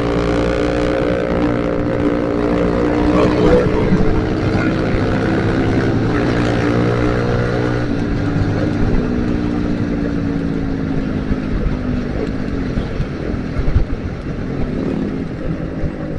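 Yamaha Vixion's single-cylinder engine running at a steady cruise while riding, with wind and road noise. The engine note eases down a little partway through.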